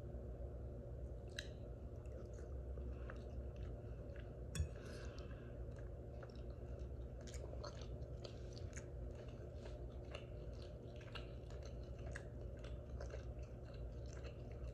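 Close-up mouth sounds of someone chewing food, with small wet clicks and smacks scattered irregularly throughout and one sharper click about four and a half seconds in, over a steady low hum.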